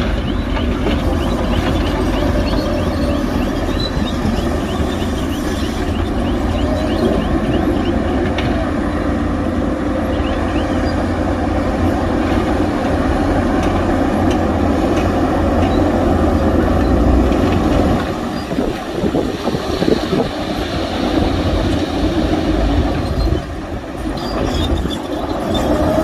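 Heavy diesel earthmoving machinery running steadily: a deep engine rumble with a fast, faint clatter through the first half. The sound drops briefly about eighteen seconds in and again near twenty-three seconds.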